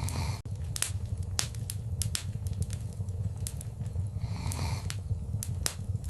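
Wood fire crackling in a fireplace: irregular sharp pops and snaps over a steady low rumble of flames, with a soft hiss swelling about four seconds in.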